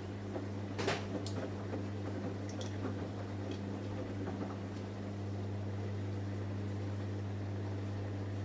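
Samsung Eco Bubble washing machine running a cotton wash, a steady low hum with a few light clicks in the first three seconds.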